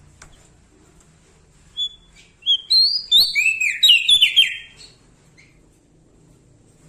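Prenjak daun Lombok singing a single burst of rapid, high chirping notes that slur downward, starting about two seconds in and lasting about three seconds.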